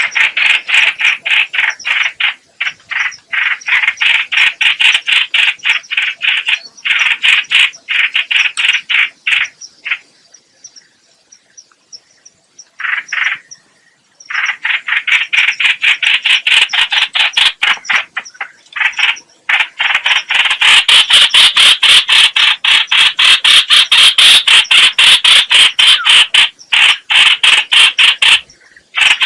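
Rapid chattering song of a trao trảo bird (also called chao chảo or hoành hoạch), used as a decoy call for bird trapping. It is a fast run of short repeated notes that breaks off for a few seconds near the middle, then comes back louder and more continuous.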